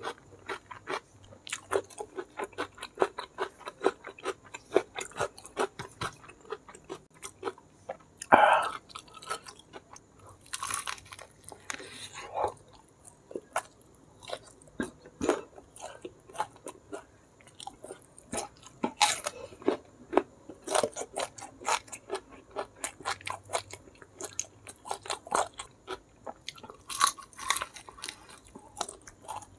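Close-miked eating sounds: steady chewing with many sharp wet clicks, and a bite into crispy smashed fried chicken (ayam geprek) near the end.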